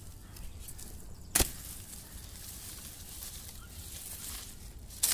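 Long-handled hoe chopping into soil to dig up potatoes: two sharp strikes, the louder one about a second and a half in and another near the end.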